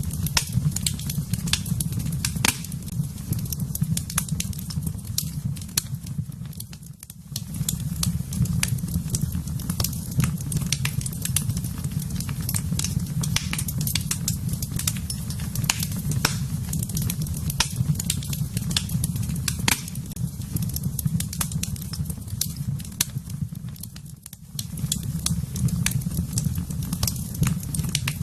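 Wood fire burning in a fireplace: frequent sharp crackles and pops over a steady low rumble of the flames, which dips briefly twice.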